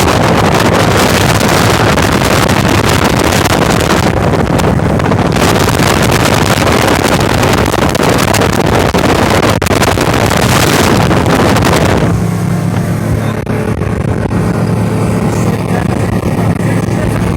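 Motorboat running at high speed on a speed run, with loud wind rushing over the microphone along with the engine's steady drone. About twelve seconds in, the wind rush drops away and the engine's steady low hum stands out.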